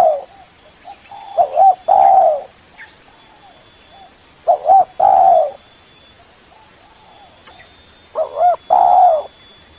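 Spotted dove (tekukur) cooing: phrases of two short coos followed by a longer drawn-out coo, repeated about every three seconds. Fainter coos sound in between.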